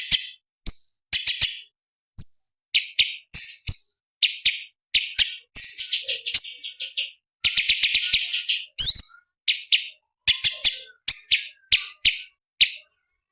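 A cucak cungkok (leafbird) singing a fast run of short, harsh, chattering bursts with brief gaps between them, with a rising sweeping note about two-thirds of the way through. The song stops shortly before the end.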